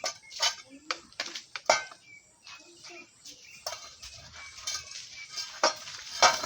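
Metal cooking pot and utensils clanking: a series of sharp knocks and clinks, irregularly spaced, as the pot is handled.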